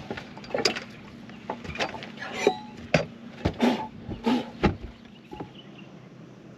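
A run of irregular knocks and clicks, a dozen or so over about five seconds and then dying away, over a steady low hum.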